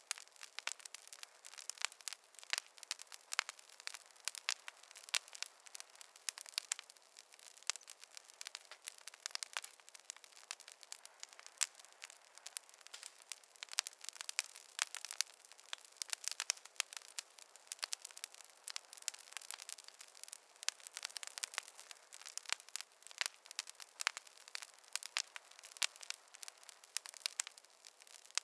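Wood fire crackling in a fireplace: a steady stream of sharp, irregular pops and snaps from burning logs over a soft hiss, with no deep roar of flame.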